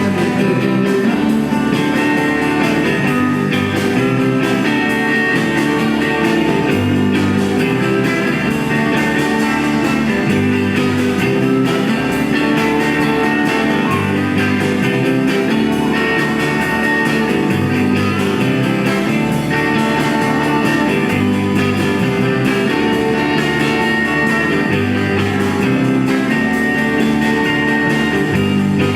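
A small band playing an instrumental blues-rock passage led by guitar over a bass line that steps between notes every second or two, steady and loud throughout.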